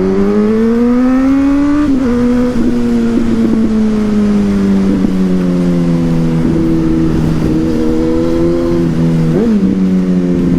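Suzuki GSX-S1000's inline-four engine through a Yoshimura exhaust, pulling hard with the pitch rising. It drops sharply at an upshift about two seconds in, then runs on with the pitch slowly falling. A short rev blip comes near the end.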